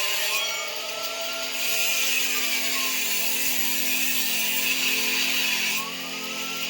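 Power tool running and cutting metal pipe, with a loud hiss that starts shortly in and stops abruptly near the end.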